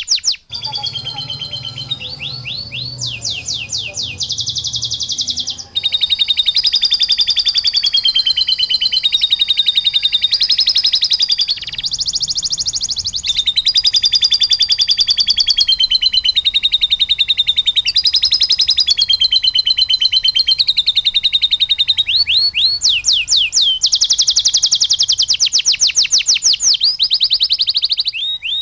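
Domestic canary singing long, fast, high-pitched trills and rolls, with lovebird phrases worked into the song, as in a bird-training master recording. Its phrases change abruptly, with short breaks about half a second in and near six seconds.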